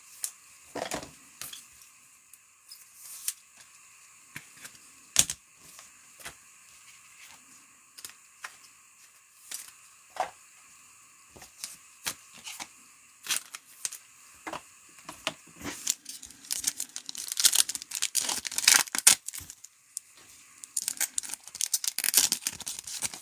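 Foil trading card packs being handled and torn open, the wrapper crinkling, with scattered clicks and taps of cards. The densest tearing and crinkling comes about two-thirds of the way through and again near the end.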